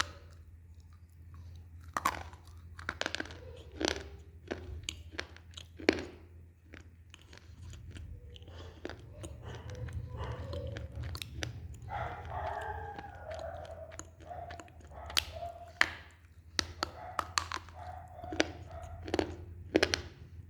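Close-miked chewing with a series of sharp, irregular crunches as something dry and brittle is bitten and ground between the teeth, over a steady low hum.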